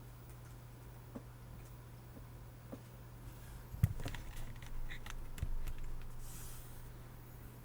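Scattered keystrokes on a Logitech Craft's low-profile scissor-switch keys: a few light ticks, then a sharp clack about four seconds in followed by several more keypresses, and a short brushing sound near the end.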